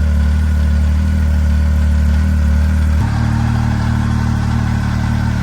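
2015 Arctic Cat ZR7000 SnoPro snowmobile's Yamaha-built three-cylinder four-stroke engine idling steadily while warming up after a cold start. The engine note changes abruptly about three seconds in.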